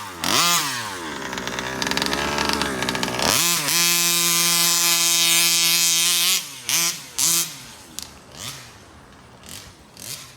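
Stock 36cc two-stroke engine of a Rovan FT360R RC truck being throttled hard. It gives a couple of quick revs, then holds a steady high-rev wail for about three seconds. A few short blips follow before it drops away quieter near the end.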